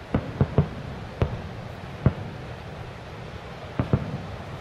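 Aerial firework shells bursting with sharp bangs: three in quick succession at the start, single bangs about one and two seconds in, and a close pair near the end.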